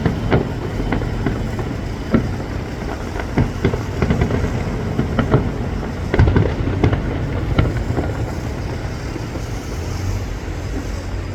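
Distant fireworks display: a steady run of bangs and booms at irregular intervals over a continuous low rumble and crackle.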